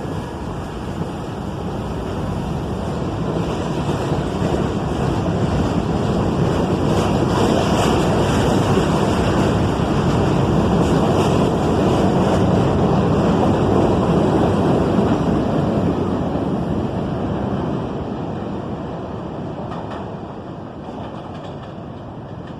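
New York City subway train running by on the track, its wheel and motor noise building over several seconds, holding, then fading away.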